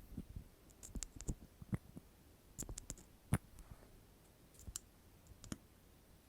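Soft, close-miked ASMR clicks, scattered irregularly with a few quick clusters and short quiet gaps between them.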